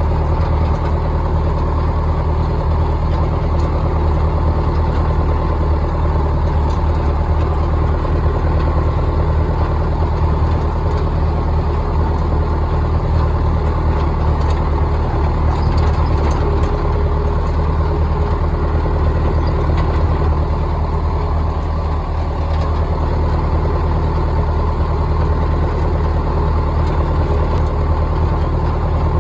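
Large vintage tractor engine idling steadily at a low, even speed.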